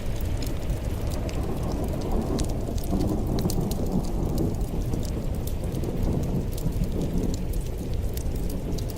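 Wood fire in a fireplace crackling: many small sharp pops and snaps scattered over a steady low rumble of the flames.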